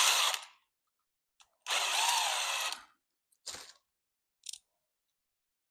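A cordless power driver runs for about a second, then a few faint clicks of tools or parts being handled.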